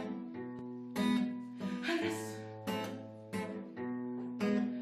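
Acoustic guitar strumming chords in an even rhythm, the instrumental accompaniment between sung lines of a song.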